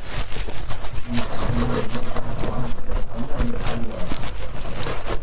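Close-miked chewing of freezer frost, a rapid run of crisp crunches several times a second.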